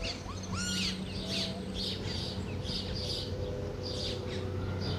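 Several birds chirping and calling in short, repeated notes, some gliding in pitch, over a low steady hum.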